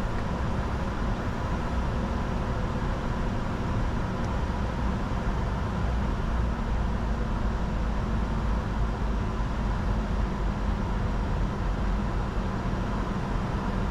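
Steady cockpit noise of a Bombardier Challenger 605 jet in descent: a rush of airflow over the airframe and the hum of its engines, with a faint steady whine above it.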